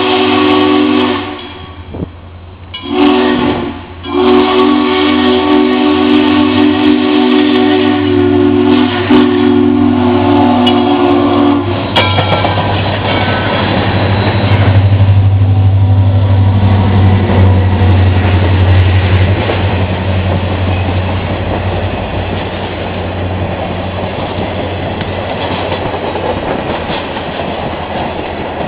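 Southern Railway 630's steam whistle, a chord of several tones: the end of a long blast, a short blast, then a long drawn-out blast that stops about twelve seconds in. The train then passes close: the low drone of a trailing diesel locomotive, then passenger cars rolling by with the clatter of wheels over rail joints, slowly fading.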